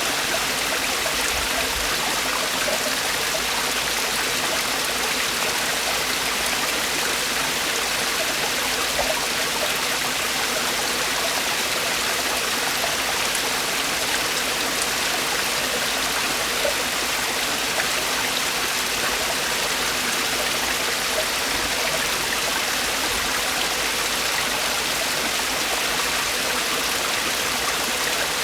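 Mountain stream water falling and splashing over rocks in a steady, unbroken rush.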